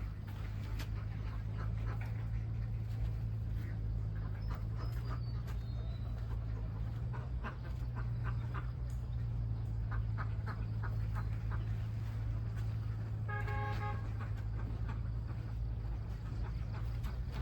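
Ducks quacking over a steady low engine hum, with one short honk about 13 seconds in.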